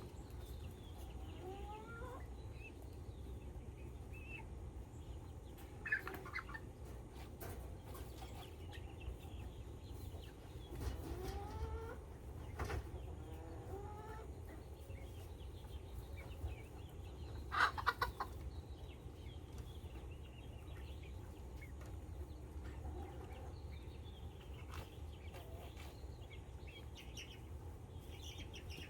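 Chickens clucking, with scattered short rising calls and one louder, sharper call about eighteen seconds in. A steady low rumble runs underneath.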